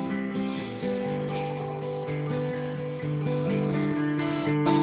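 Instrumental music led by acoustic guitar, played between sung lines of a slow folk song.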